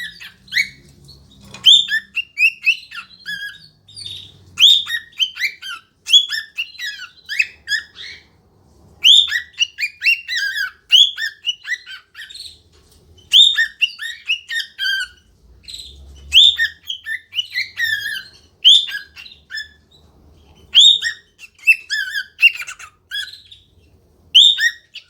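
Cockatiel whistling and chattering its song: quick phrases of short whistled notes and rising and falling glides, with brief pauses between phrases.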